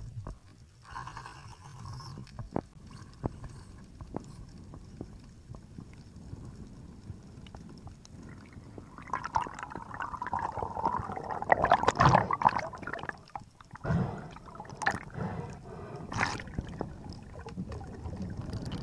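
Underwater sound: scattered sharp clicks and knocks over a noisy background, with a louder stretch of rushing, gurgling noise in the middle.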